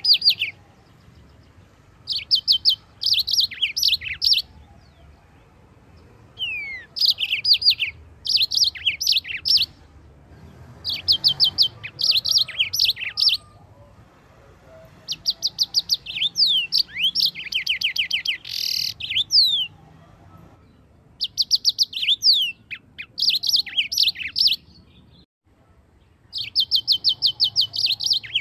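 Yellow-fronted canary (Mozambique canary) singing: repeated bursts of rapid high trills mixed with whistled notes. Each burst lasts a few seconds, with short pauses between.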